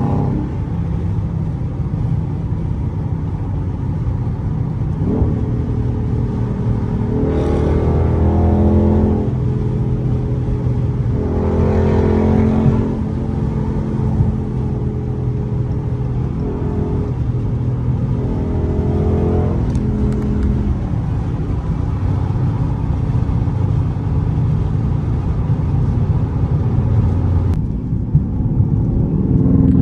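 Dodge Charger Scat Pack's 6.4-litre 392 Hemi V8 through a mid-muffler-delete exhaust, droning steadily while driving at speed. It surges several times with rising pitch under acceleration, most strongly around eight and twelve seconds in.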